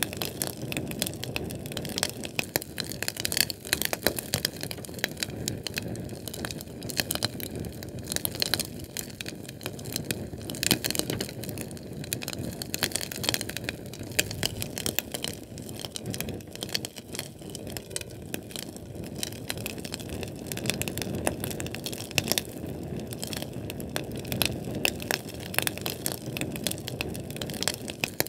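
Sterno canned-fuel flame burning, crackling: dense, irregular small pops and snaps over a steady low rumble of flame.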